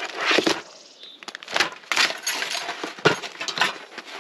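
Forks and other utensils clinking and rattling as they are rummaged out of a storage tub, in a string of sharp clatters.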